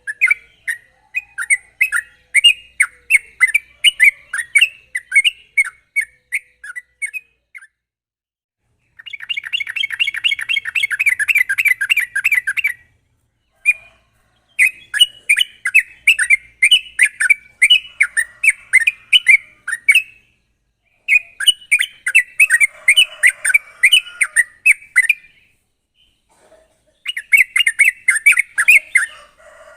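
Yellow-vented bulbul (trucukan) singing at full pace: phrases of quick, sharp chattering notes a few seconds long, separated by short pauses. A very fast unbroken trill, the rapid 'ropel', comes about a third of the way in.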